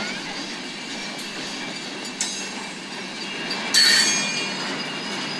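BNSF freight train of boxcars rolling past, with a steady rumble of wheels on rail. Two sudden high metallic wheel squeals cut in, about two seconds in and again near four seconds, the second the loudest.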